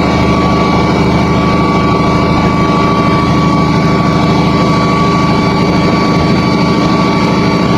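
Dump truck's diesel engine running steadily, a low rumble with a steady whine over it.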